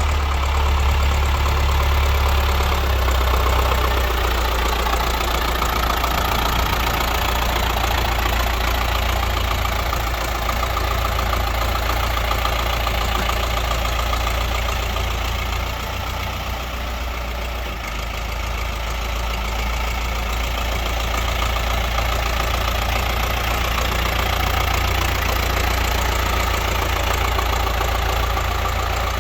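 Ford County 5000 tractor's four-cylinder diesel engine idling steadily, easing off slightly in level about halfway through.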